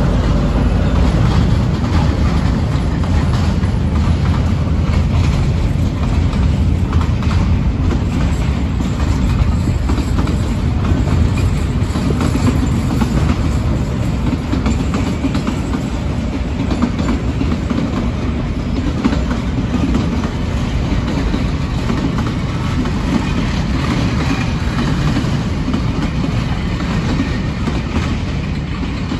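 Freight train of container wagons and empty flat wagons rolling past close by, a loud, steady rumble with the wheels clattering and clicking over the rails, easing slightly in the last few seconds.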